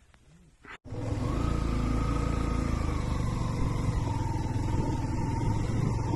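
Near silence for under a second, then a motorcycle running steadily while riding, its engine and road noise constant with a faint whine that drifts slightly lower.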